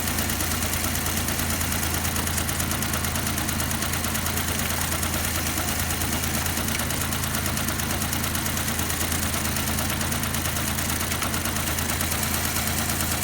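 Car engine idling steadily with a fast, even pulse.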